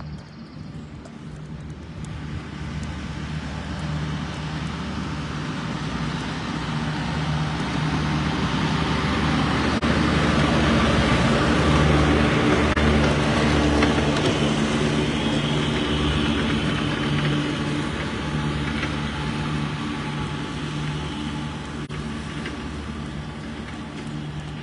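Engine of a grass-cutting mower running steadily, growing louder to a peak about halfway through and then fading as it passes.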